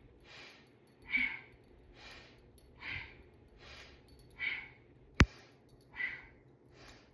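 Rhythmic breathing through the nose, stronger breaths alternating with softer ones, about one full inhale and exhale every second and a half, keeping time with the spinal flexes of Kundalini cat-cow. A single sharp click about five seconds in.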